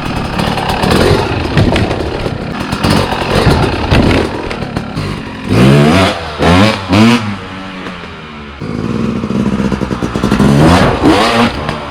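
Dirt bike engine revving up and down several times, with clattering knocks as the bike rides over an obstacle.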